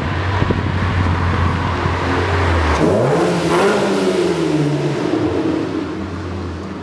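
Sports car engine accelerating hard through a road tunnel, its note climbing in pitch about three seconds in, over a steady low engine drone, with the tunnel echoing the sound.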